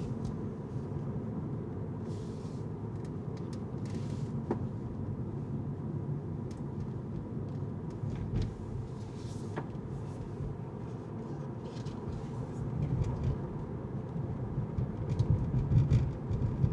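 Car driving on city streets: steady low road and engine rumble, with a few faint ticks and hissing swells. The rumble grows louder and bumpier near the end.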